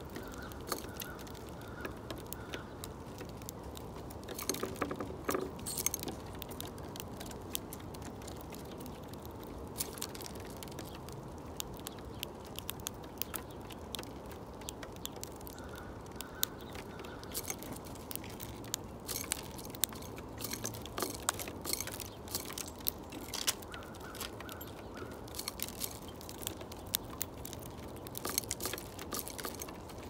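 Many irregular sharp clicks and taps, some in quick clusters, from small back-yard birds pecking, over a steady low background noise.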